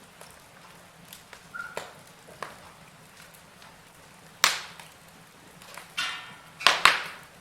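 Wood fire burning in a fireplace: a soft steady hiss with scattered small crackles, a loud pop about four and a half seconds in, and a quick run of sharp cracks near the end.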